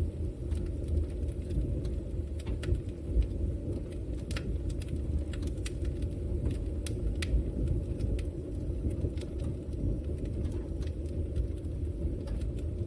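Wood fire burning in a fireplace: a steady low rumble of flames with scattered sharp crackles and pops at irregular times.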